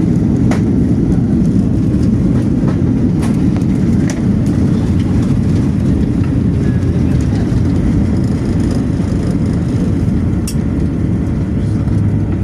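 Steady low rumble of aircraft cabin noise, with a few faint clicks or rattles.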